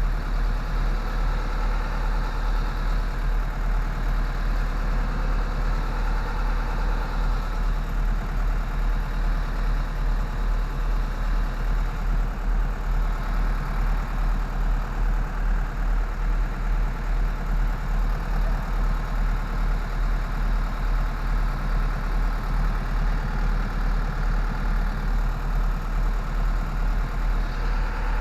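Engine idling steadily with an even low throb, typical of a truck or its refrigeration unit running during a repair.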